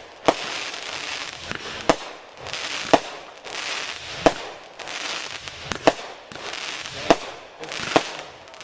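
Aerial fireworks going off in a barrage: sharp bangs about once a second, with a hissing crackle between them.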